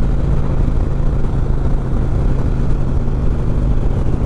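Harley-Davidson Road King's 103 V-twin running steadily at cruising speed through an Ultima 2-into-1 exhaust, with a rushing noise over the engine note.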